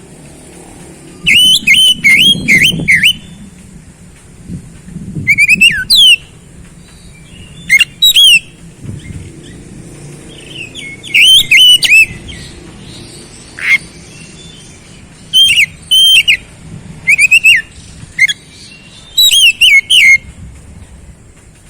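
Oriental magpie-robin (kacer) singing: loud phrases of quick, clear whistled notes, each a short slurred hook, repeated in clusters with pauses of a second or two between.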